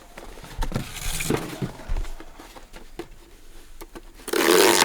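Cardboard box and packaging being handled and opened: scraping and rustling with small knocks, and a louder, half-second rustle near the end.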